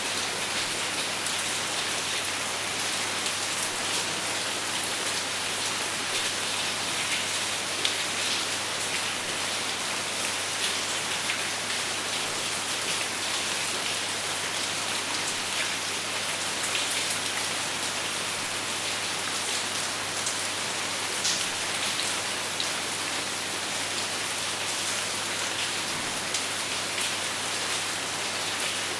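Steady rain falling, with no thunder: a dense, even hiss of drops on surfaces, with fine individual drop ticks now and then.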